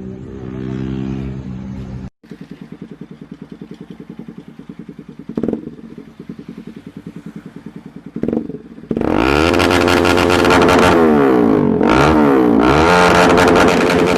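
Motorcycle with an aftermarket exhaust idling with an even pulsing beat. It is blipped twice, then revved hard several times, the exhaust note sweeping up and falling back with each rev. A steady droning tone comes before a cut about two seconds in.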